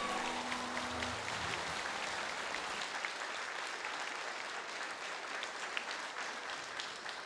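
Audience applauding as a song ends, with the band's last held guitar and bass notes dying away in the first second or so; the clapping tapers off slowly.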